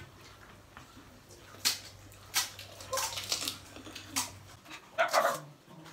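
Pani puri being eaten: short wet slurps and crunches as the water-filled puris are bitten, coming in several separate bursts. About five seconds in there is a brief voiced sound.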